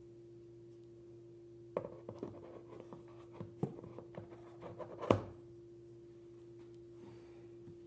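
Hands handling packaging and items: a few seconds of rustling and light clicks, ending in one sharp knock about five seconds in, over a steady low hum.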